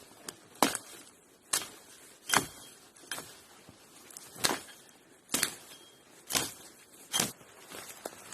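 A series of sharp knocks or impacts, about one a second, some with a short ringing tail, over a faint steady background hiss.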